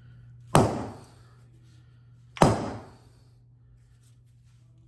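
Two sharp knocks about two seconds apart, each with a short ringing tail, as the Graco airless sprayer's pump is knocked loose to get at the piston pin. A steady low hum runs underneath.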